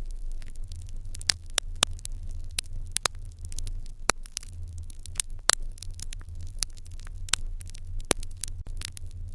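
Fire crackling in an irori hearth: irregular sharp pops and snaps, several a second, over a low steady rumble.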